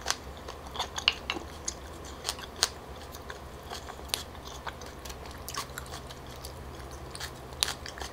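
Close-miked chewing of a mouthful of stir-fried tteokbokki with seafood: irregular wet clicks and smacks of the mouth and food, several a second at times, over a steady low hum.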